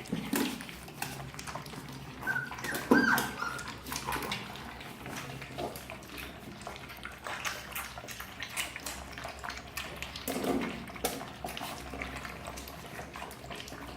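Puppies whimpering, with one high whine a couple of seconds in, among many small clicks and knocks.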